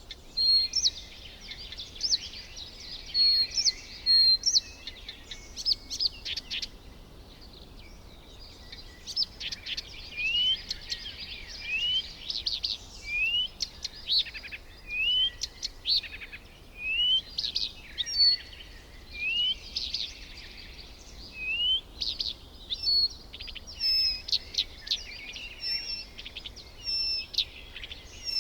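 Several birds calling and chirping at once, in many short high whistles and chirps, with one bird repeating a short rising note about once a second through the middle.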